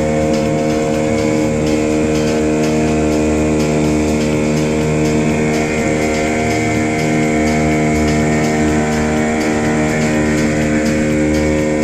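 Motorboat engine running steadily at an even speed during a boat ride.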